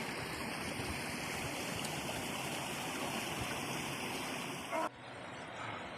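Mountain river rushing over rocks in a steady noise. It cuts off abruptly about five seconds in, leaving a quieter, duller hiss.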